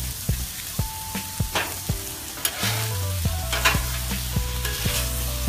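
Pork strips and diced Spam sizzling on the steel cooktop of a Blackstone griddle, with a metal spatula scraping and clacking against the steel as the meat is tossed, in a run of sharp clicks.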